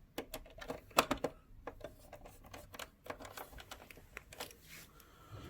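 Irregular light clicks and taps of a screwdriver and small screws as screws are put back into a PlayStation 4's power supply unit, with a cluster of louder clicks about a second in.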